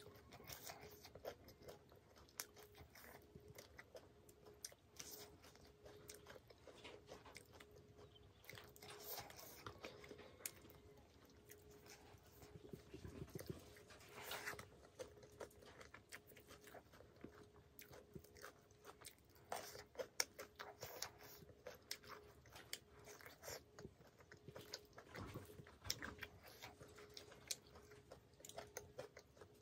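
Quiet, close-miked eating sounds of a person chewing and biting pork curry, rice and raw wild vegetable leaves: wet mouth clicks with scattered crunches. A faint steady hum runs underneath.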